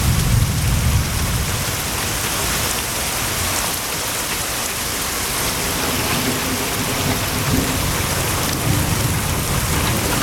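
Heavy rain pouring down in a steady, loud hiss. A low rumble comes in over it during the first second or so and again near the end.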